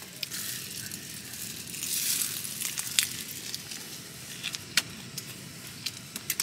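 Salt-grilled shrimp being chewed with its shell on: soft crunching with a few sharp cracks of shell.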